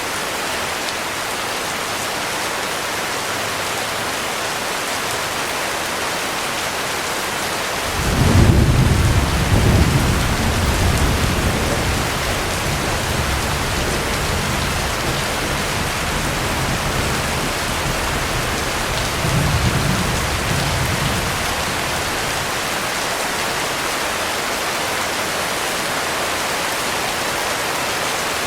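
Heavy rain pouring in a steady hiss. About eight seconds in, a peal of thunder breaks into a deep rumble that rolls on for over ten seconds. It swells again briefly about twenty seconds in, then dies away.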